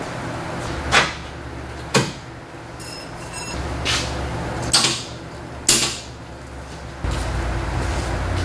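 Sharp metallic clanks and knocks, about five of them, one followed by a brief metal ring. A low hum comes and goes between them and is loudest near the end, during welding set-up with a poor welder ground on painted metal.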